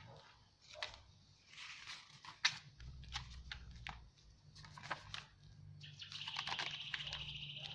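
Paper pages and card being handled and turned, with crisp rustles and small taps. About six seconds in, a bird gives a rapid high trill lasting nearly two seconds.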